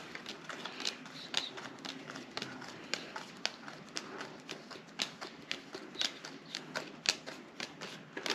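Playing cards being counted out and laid down on a table: a string of short, soft clicks and snaps, a few a second at an uneven pace.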